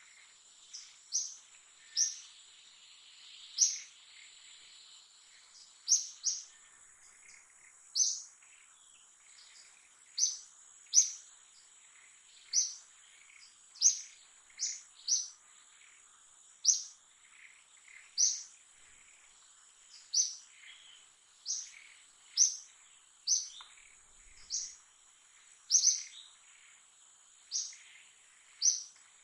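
A bird calling with short, sharp chirps that fall in pitch, repeated roughly once a second, over a steady high thin whine like an insect's.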